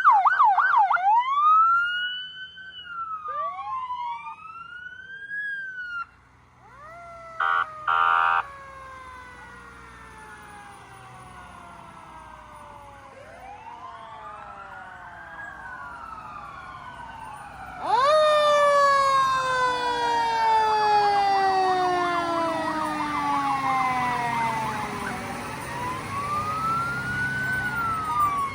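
Emergency vehicle sirens: a fast yelp that changes to a slow rising-and-falling wail, then two short blasts, then several sirens wailing over one another. About two-thirds of the way through a much louder siren cuts in with a falling sweep and keeps wailing.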